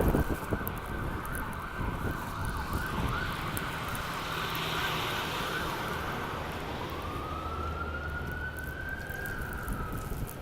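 Emergency vehicle siren sounding over steady city street noise, its pitch wavering and then, in the last few seconds, rising slowly and falling away. A short thump comes right at the start.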